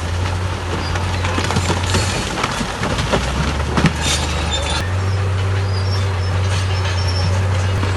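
Crawler bulldozer working: a steady diesel engine drone, with its steel tracks clanking and squealing. The clanking is densest in the first half, and the engine note steps up about five seconds in.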